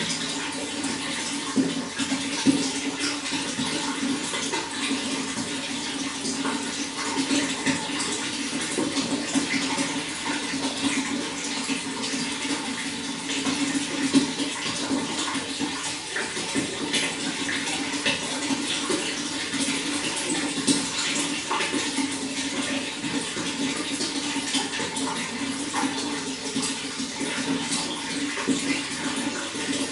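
Running water flowing steadily: an even rush with many small splashes throughout.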